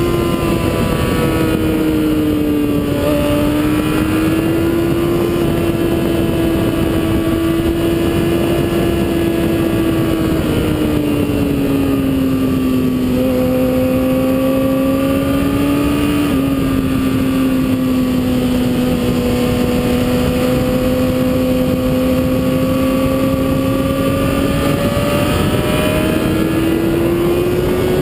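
Motorcycle engine running hard on a race track, its pitch easing down through the middle and climbing again near the end, over a steady rush of wind.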